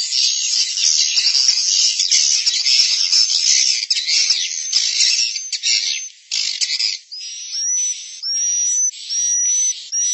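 Swiftlet lure recording of the 'suara inap' roosting call used in edible-nest swiftlet houses: dense, high-pitched twittering chirps that give way about seven seconds in to a series of about five separate calls, each rising and then holding steady.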